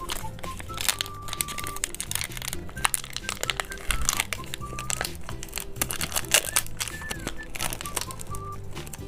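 Crinkling and tearing of a candy wrapper being opened by hand, in many quick irregular crackles, over background music with a repeating bass line.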